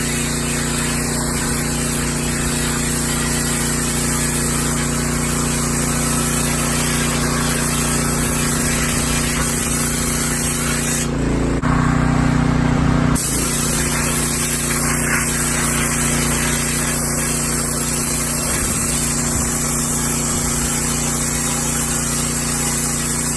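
Pressure washer pump running with a wet sand blaster attachment, a steady loud hiss of water and sand spraying over a constant pump hum. About halfway through, the spray breaks off for a second or two, then starts again.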